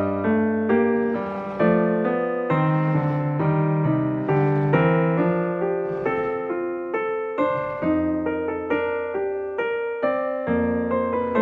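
Background piano music: a gentle melody of single notes and chords played at a moderate pace.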